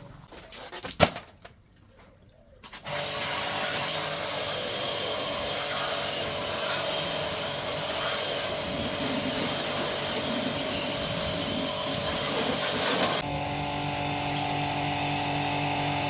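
A sharp click, then about three seconds in a motorised machine starts and runs with a steady hiss-like rush. Near the end the rush drops and a lower, steadier hum comes through.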